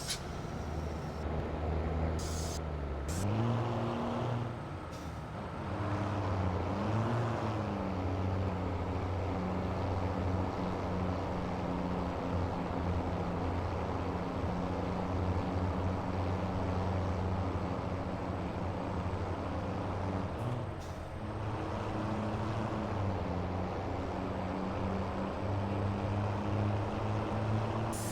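Scania V8 truck engine running, its pitch climbing about three seconds in, rising and falling briefly near seven seconds, then dipping and picking up again around twenty-one seconds. A couple of short hisses come about two to three seconds in.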